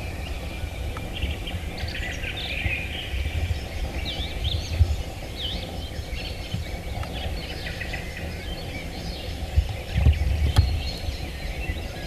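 Small songbirds chirping and singing, many short calls overlapping, over a steady low rumble. A single sharp click near the end.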